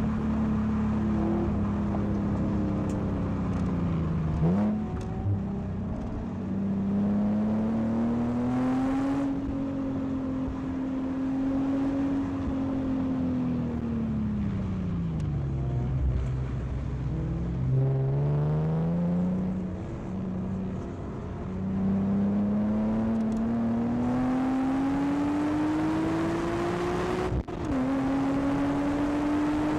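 Stock Nissan 370Z's 3.7-litre V6 heard from inside the cabin on track. Its pitch climbs as it accelerates and falls as it slows, several times over, with sudden breaks at gear changes, the sharpest near the end.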